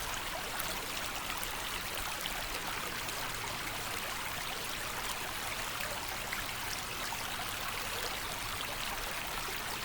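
Creek water running, a steady, even rush with no breaks.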